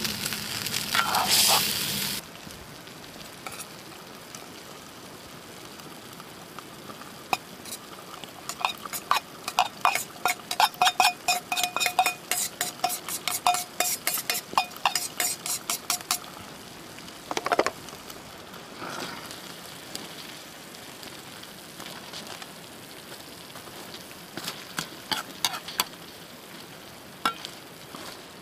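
Food sizzling in an iron wok, stopping suddenly about two seconds in. About eight seconds in comes a quick run of metal clinks with a ringing tone, lasting about eight seconds: a metal utensil striking the iron wok as the food is stirred. A few scattered knocks follow.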